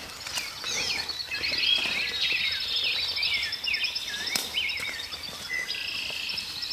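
Several songbirds singing at once: overlapping chirps, swooping whistled notes and fast trills, with a single sharp click about four seconds in.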